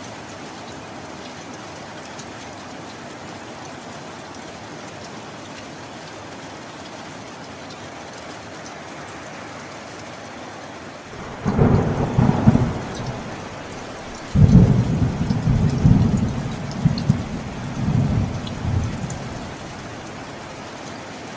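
Steady rain falling, with two claps of thunder about halfway through: a short rumble, then a longer, louder one that swells several times before dying away.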